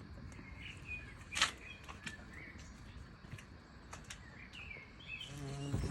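Faint birds chirping, with short scattered calls and a few soft clicks.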